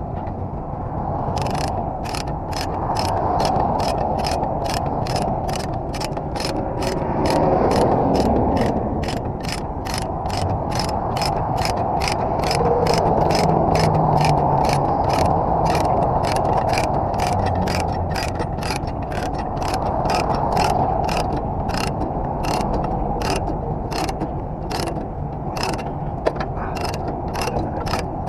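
A ratchet tie-down being cranked to tighten the load securement, its pawl clicking at a steady pace of about two clicks a second, over steady background noise.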